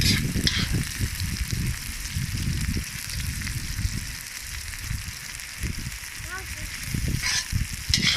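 Sliced onions frying in oil in a hot cast-iron kazan: a steady sizzle, with a few short clinks of the stirring utensil against the pot near the start and again near the end.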